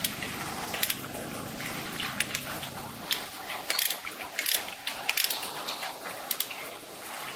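Irregular metallic clicks and clinks of hand tools at work, over a low rumble that stops about three seconds in.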